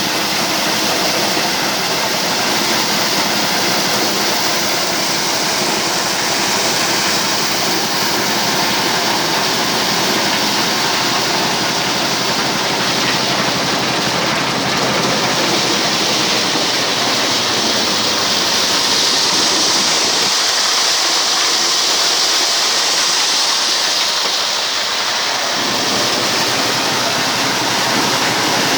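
Diesel-engine-driven corn sheller running, a loud steady rushing machine noise over the engine's drone. The low end thins out for a few seconds near the end.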